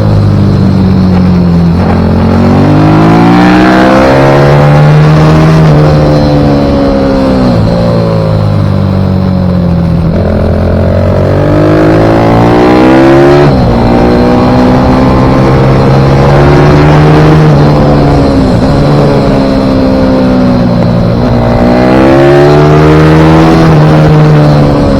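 Pit bike engine under hard riding: it revs up, drops sharply as gears change or the throttle closes, then climbs again, several times over, as the bike is ridden around the track.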